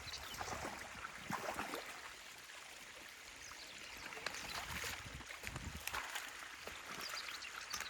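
Stream water flowing and splashing at a beaver dam, with irregular short splashes.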